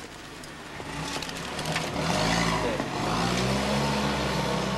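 A car's engine revving as the car pulls away, its pitch rising twice over a low rumble.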